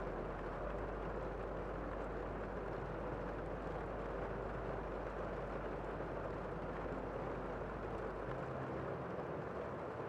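Steady rain heard from inside a room: an even, dull rush with most of its sound low and little high hiss, unchanging throughout.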